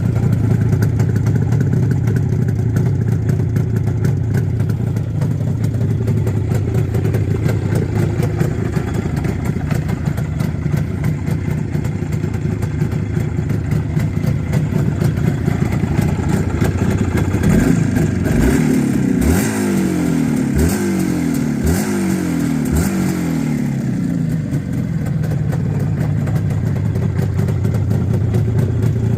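IZh Jupiter 4 motorcycle's two-stroke twin engine idling steadily, then revved in about five quick throttle blips a little past the middle, each rising and falling in pitch, before settling back to idle.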